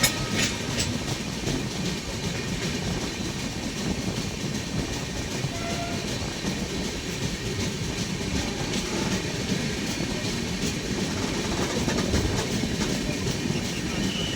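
Golden Temple Mail passenger train running along the track: a steady rumble of wheels on rails, with faint clicks over the rail joints.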